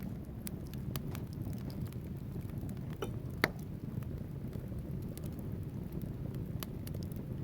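Wood fire burning in a fireplace: a steady low rumble of flames with scattered sharp crackles and pops from the logs, one louder pop about three and a half seconds in.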